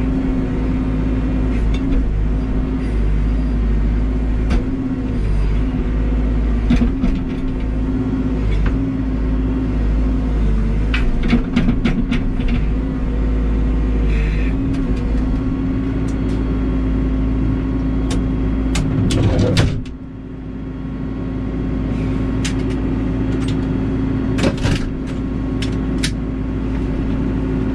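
Backhoe's diesel engine running steadily under working load, its pitch wavering a little, with scattered sharp knocks and clacks. The engine sound drops briefly about twenty seconds in, then comes back up.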